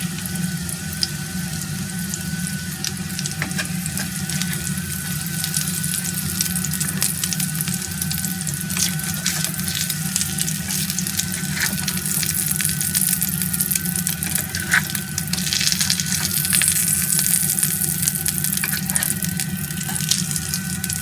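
Chicken and vegetables frying in a pan: a steady sizzle with many scattered pops, getting brighter and louder about twelve seconds in.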